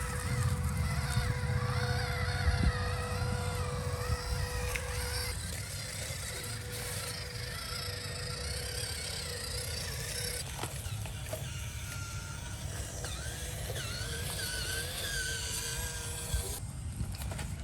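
Electric motor of an RC off-road truck whining, its pitch rising and falling with the throttle, over a low rumble that is heavier in the first few seconds.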